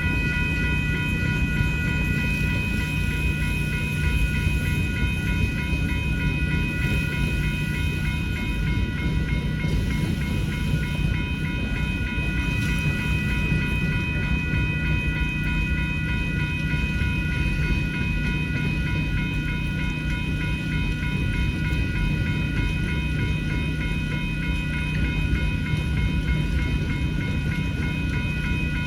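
Freight cars of a long manifest train rolling through a grade crossing with a steady rumble and wheel clatter. Crossing-signal bells ring continuously over it, and a generator hums steadily in the background.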